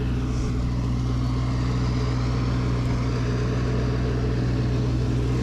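Engine of a snow-clearing machine running steadily at one speed, a low even hum.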